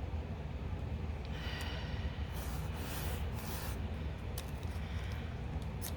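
Masking tape being handled on a canvas edge: a short squeak, then a few soft swishing rubs and faint clicks, over a steady low hum.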